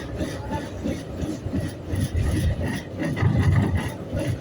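A moving train running, with a steady low rumble and irregular rattling and scraping.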